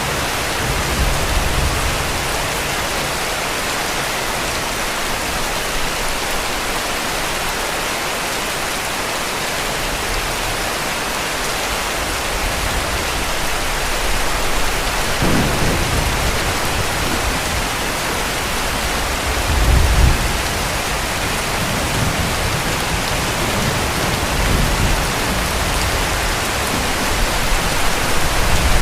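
Steady heavy rain hiss with distant thunder rumbling low underneath, building about halfway through and peaking at around twenty seconds, with more low rumbles near the end.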